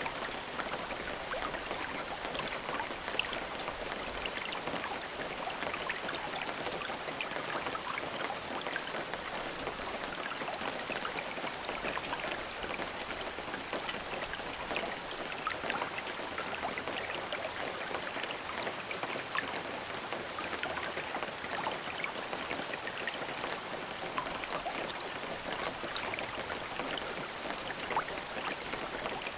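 Steady rain with many fine individual drop ticks, no thunder.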